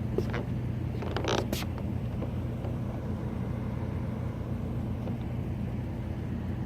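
Steady low machine hum from rooftop HVAC gas pack units running, with a brief scuffing noise about a second in.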